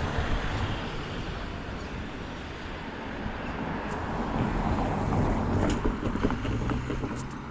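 A vehicle passing close by with a broad rumble that swells about five seconds in and then fades, with wind buffeting the microphone.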